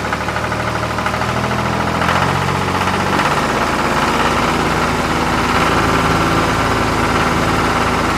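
Small engine of a miniature DIY tractor running steadily with a fast, even beat.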